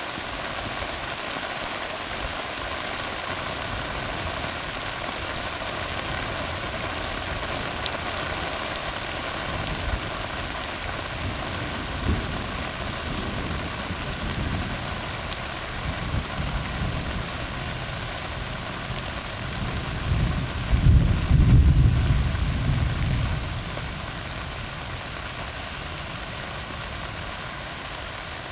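Steady rain falling on a tar road. A low rumble of thunder swells in uneven surges from a little before halfway, is loudest about three-quarters of the way through, then dies away.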